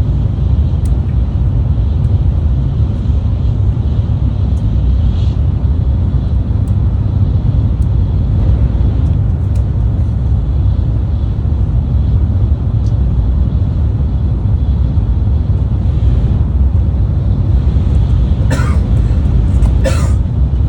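Steady low rumble of a Tokaido Shinkansen train running, with two brief high squeaks near the end.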